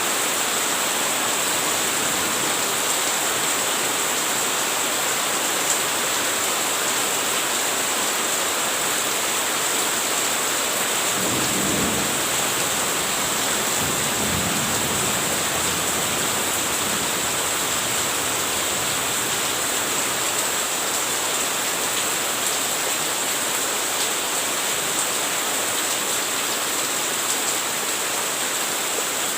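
Steady rain, an even hiss without a break, with two short low rumbles of thunder near the middle.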